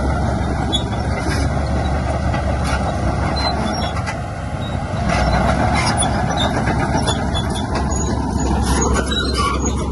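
Diesel engine of heavy earthmoving machinery running steadily, with scattered short metallic clanks and squeaks over it.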